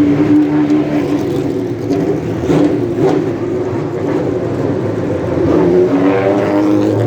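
Sports car engines running and revving as the cars pass, several engine notes overlapping and shifting in pitch, one rising about six seconds in.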